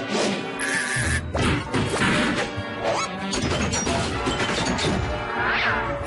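Cartoon slapstick sound effects: a rapid series of crashes and bangs over busy cartoon music.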